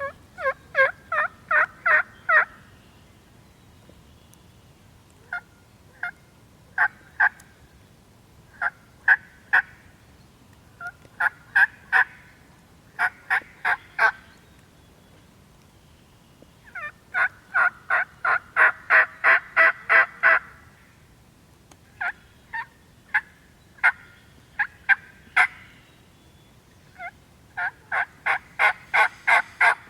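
Turkey yelping: runs of short, sharp, evenly spaced notes, about four a second, in strings of a few to over a dozen with short pauses between.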